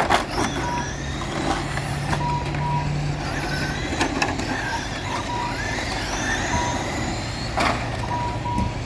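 Electric RC short-course trucks racing, their motors whining and rising and falling in pitch, with short electronic beeps from the lap-timing system repeating every second or so over a steady low hum.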